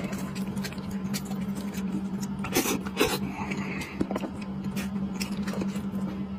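Close-miked eating sounds: chewing and tearing at food, with a run of short sharp wet clicks and crackles, the loudest two about two and a half and three seconds in. A steady low hum runs underneath.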